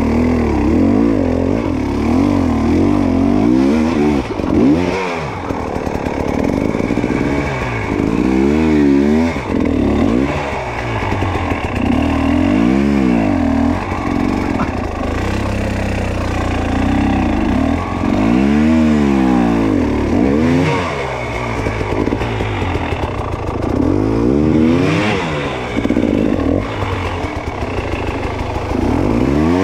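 Dirt bike engine revving up and falling back over and over, every couple of seconds, in repeated bursts of throttle as the bike is ridden through hard enduro terrain.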